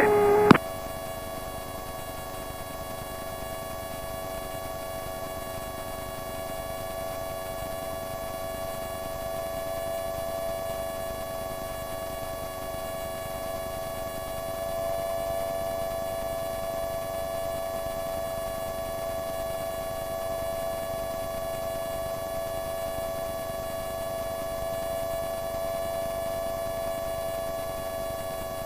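Microlight aircraft's running engine heard through the cockpit intercom as a steady droning whine with several even overtones, getting slightly louder about halfway through.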